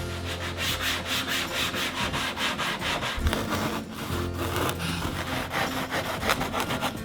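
Quick, rhythmic back-and-forth strokes of a hand tool rasping across PVC foam while the dodger panels are shaped.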